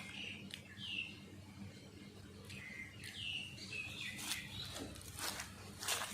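Birds chirping in short, repeated curved calls, over the soft clicks and smacks of someone chewing food up close; a few sharper clicks come near the end.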